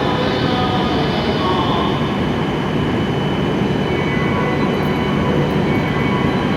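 Steady, continuous noise of an E7-series Shinkansen train standing at the platform, its onboard equipment running, with no rise or fall in level.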